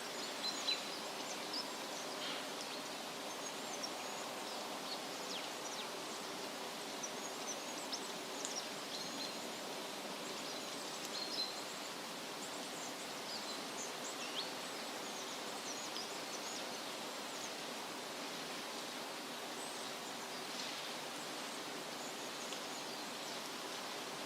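Steady rustle of wind through leafy trees, with scattered short bird chirps and whistles, most of them in the first half.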